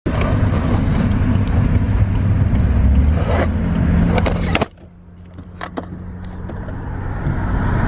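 Low vehicle rumble with a steady hum. It drops away abruptly about halfway through, then builds back up.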